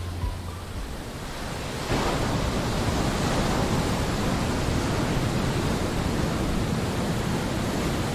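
Steady rushing noise of ocean surf and wind on the microphone, getting louder about two seconds in.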